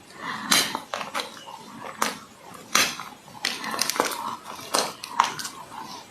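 Dry clay being bitten and chewed close to the microphone: a series of sharp, irregular crunches, about one every half second to a second.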